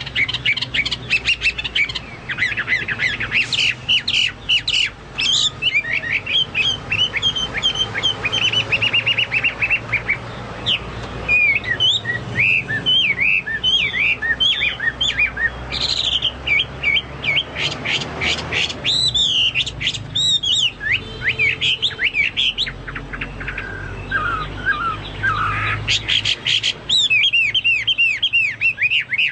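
Chinese hwamei singing without pause: a rapid, varied run of clear whistles, slurred sweeps and fast trills. It is in full, vigorous song (gacor), its phrases likened to those of a cucak Papua or cucak mas.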